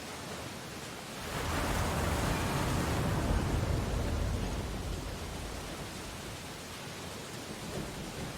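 Ocean waves on a beach: a steady wash of surf, with one wave breaking and rushing up about a second in, then slowly fading back.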